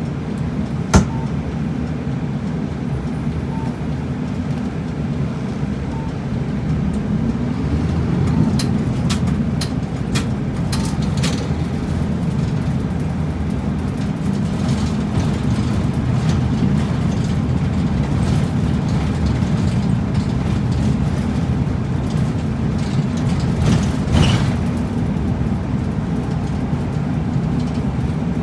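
Route bus engine running under way, heard from inside the cabin, its note rising for a couple of seconds about six seconds in. A sharp click about a second in, a few rattling clicks around nine to eleven seconds, and a knock near the end.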